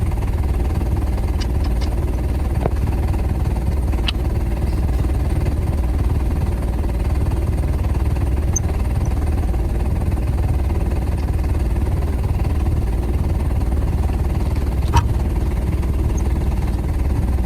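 A large engine running steadily with a low rumble, with a few faint clicks and a slightly louder tap near the end.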